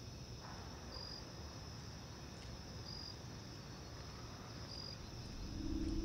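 Faint crickets: a steady high trill with a short chirp about every two seconds. A low sustained music tone swells in near the end.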